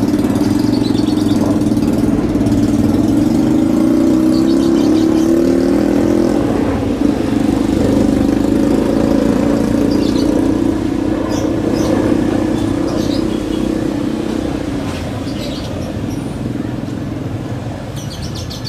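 Bell 412EP twin-turbine helicopter taking off, its engines and rotor making a steady loud hum that eases off over the last few seconds.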